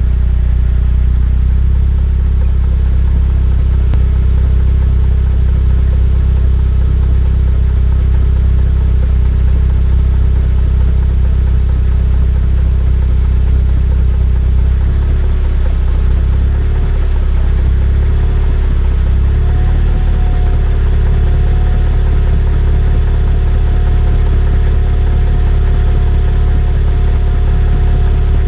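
Jeep Compass drivetrain running, heard from beneath at the rear differential: a steady low hum and drone, the odd sound being checked there. Partway through, the low hum wavers and shifts in pitch, and a steadier higher tone joins about two-thirds of the way in.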